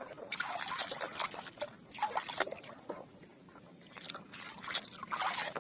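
A plastic toy vehicle being washed by hand: irregular splashing, scrubbing and knocking of plastic in water.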